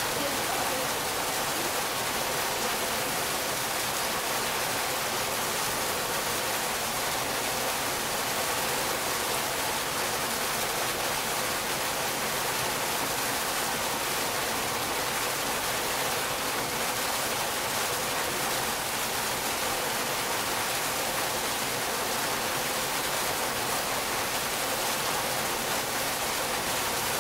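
Water pouring steadily in an ornamental fountain and artificial waterfall, a constant rushing splash that stays even throughout.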